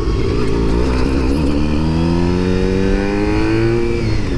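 Honda road motorcycle's engine under way, pulling harder with its pitch climbing steadily through the second half, then dropping near the end as it changes up a gear.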